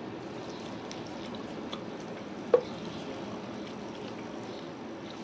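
Close-up chewing and wet mouth sounds of a person eating curried chicken and rice by hand, with one sharp click about two and a half seconds in.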